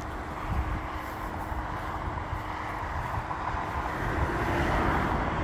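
Water pouring down a waterfall built into an old Chevy C10 pickup and splashing into a small pond, a steady rushing hiss that grows louder about four seconds in, over a low rumble.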